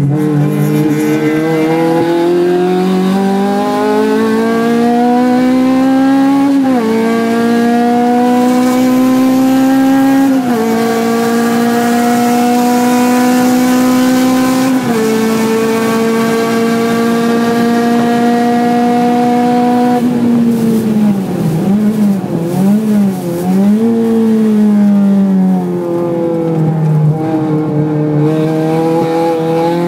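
Honda Civic Type R FD2R's 2.0-litre K20A four-cylinder engine heard from inside the cabin, pulling hard through three upshifts and then holding steady revs down a straight. About twenty seconds in the revs fall under braking, with a few throttle blips on the downshifts, then climb again with one more upshift near the end.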